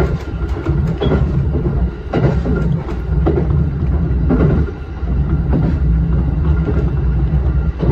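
Shinano Railway SR1-series electric train running, heard from inside the driver's cab: a steady low rumble with irregular clacks of the wheels over the rails.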